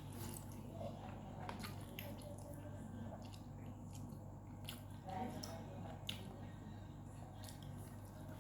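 Close-up mouth sounds of a person eating: wet chewing with scattered small clicks, over a steady low hum.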